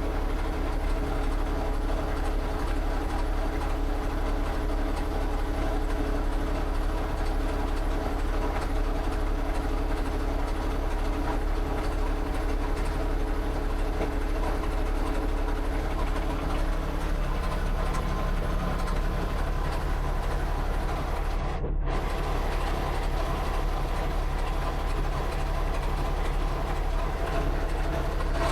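An engine running steadily, its tone shifting slightly a little past halfway through.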